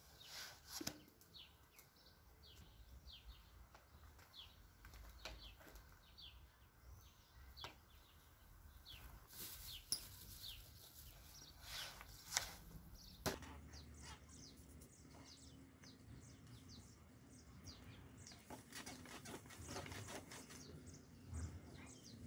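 Faint bird chirping: a long run of short, falling chirps, about two a second, fading out about halfway through, with a few sharp knocks among them.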